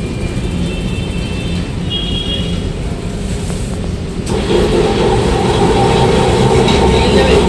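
A Kolkata electric tram running, with a steady low rumble. A little after four seconds in, a steady humming tone joins it and the sound grows louder.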